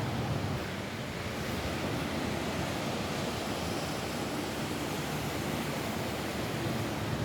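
Rain falling steadily on a roof, an even, unbroken hiss.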